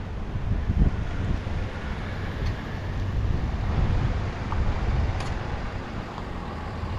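Wind buffeting the microphone of a moving bike as a steady, gusty rumble, with road traffic underneath.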